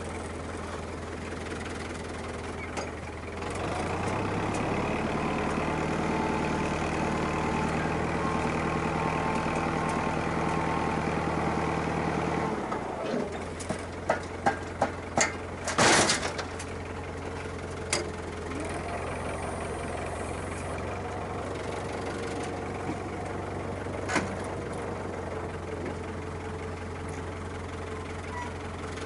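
Farm tractor's diesel engine running, revved up under load for several seconds about four seconds in, then dropping back to idle. A few sharp knocks and clanks follow about halfway through.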